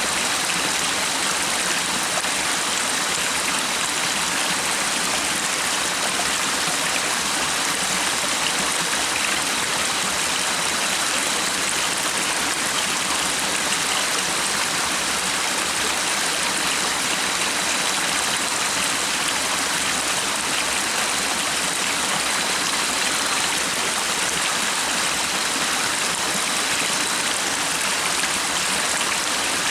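Stream water running steadily, an even, unbroken rushing.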